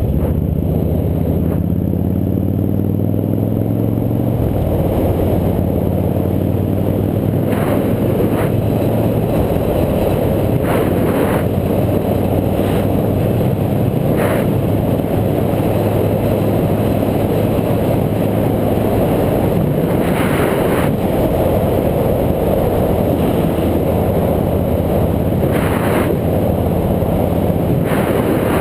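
Motorcycle engine running at road speed under heavy wind rush over a helmet-mounted camera. The engine pitch rises in the first few seconds as it accelerates, and several short bursts of noise cut through the rush.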